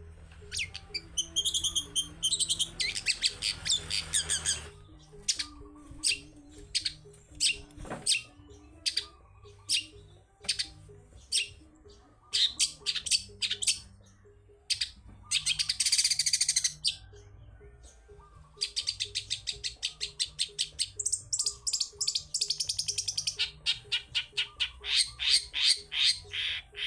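Long-tailed shrike (cendet) singing: sharp, quick high calls and fast rattling runs of repeated notes, broken by short pauses.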